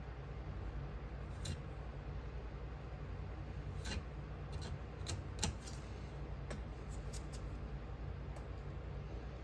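A hand tool scraping and cutting sprue and vent channels into oil-bonded Petrobond casting sand: scattered light scrapes and ticks, the sharpest about five and a half seconds in, over a steady low hum.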